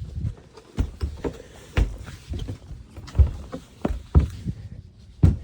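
Irregular thuds and knocks of a person crawling and shuffling through a cramped space, hands, knees and body bumping against boards, about one or two a second.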